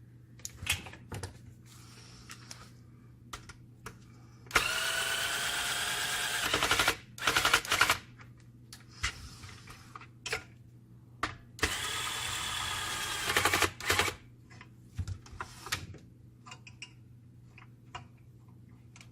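A small electric motor runs twice, about two seconds each time, with a whine that sags slightly in pitch. Scattered clicks and knocks come in between, over a steady low hum.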